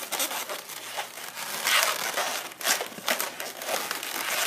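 Latex modelling balloons rubbing and being twisted in the hands, a rubbery rustling with irregular louder scrapes, strongest about two seconds in.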